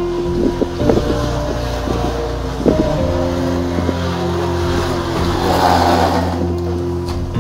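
Empty plastic water bottle taped to the back of a bicycle, set buzzing and rattling by the turning rear wheel so that it sounds like a motorcycle, louder for a stretch late on. Background music with steady held notes runs underneath.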